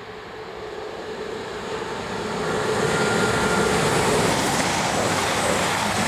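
A diesel express passenger train approaches and passes through the station at speed. Its engine hum and wheel-on-rail noise build over the first couple of seconds into a steady loud rush as the coaches go by.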